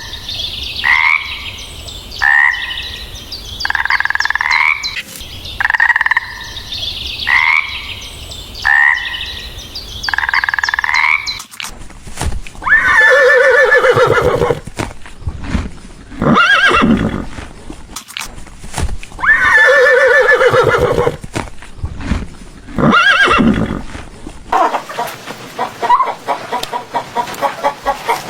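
A run of animal calls: short rising calls repeated about once a second for the first eleven seconds, then a horse whinnying four times, loud and long, then a fast pulsing call near the end.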